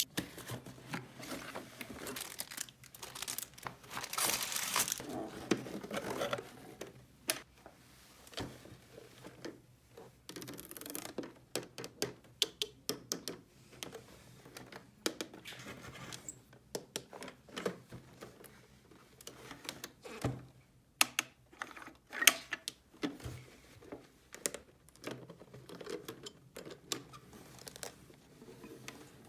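Hands handling small plastic toy pieces and packaging: irregular clicks and taps with bouts of crinkly rustling.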